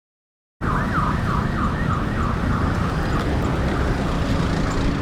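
Dead silence, then about half a second in loud wind and road rumble cut in together with an electronic warbling alarm that rises and falls about three to four times a second and fades away over the next few seconds. A low steady hum joins near the end.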